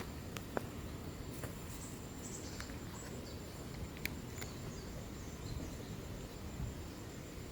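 Outdoor background noise: a steady low rumble with a thin, steady high tone, faint short high chirps and a few sharp clicks.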